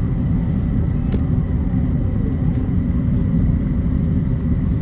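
Cabin noise of an Airbus A350-900 taxiing before takeoff: a steady low rumble from its Rolls-Royce Trent XWB engines at low power and the aircraft rolling, with a faint steady high tone over it.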